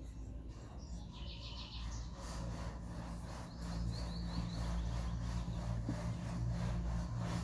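Birds chirping in two short trills of quick repeated notes, the second higher than the first, over a steady low hum that grows louder a few seconds in.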